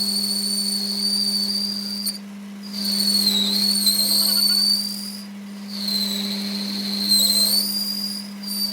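A high, slightly wavering whine over a steady low hum; the whine cuts out briefly about two seconds in, around five seconds in, and near the end.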